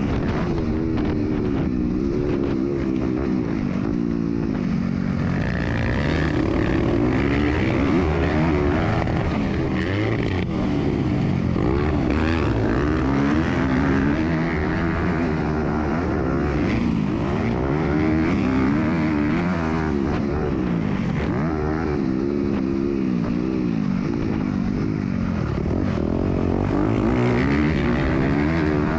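MX2 motocross bike engine heard up close from the onboard camera, revving up and dropping back again and again as the rider accelerates, shifts and brakes around the track.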